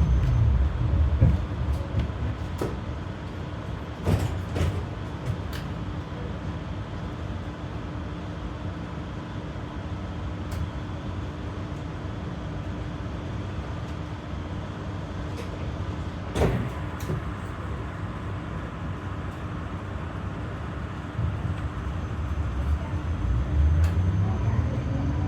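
Inside an articulated tram: the traction motor's whine falls away as the car comes to a stop at the start, then it stands with a steady hum, broken by a sharp click about 4 seconds in and another about 16 seconds in. Near the end the motor whine rises again as the tram pulls away.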